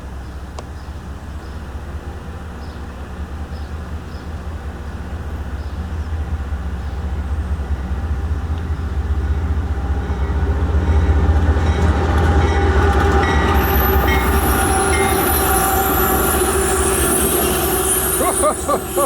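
A CSX freight train approaches and passes close by. Its low rumble grows louder over about ten seconds, then steady ringing tones join it, with high thin tones in the last few seconds.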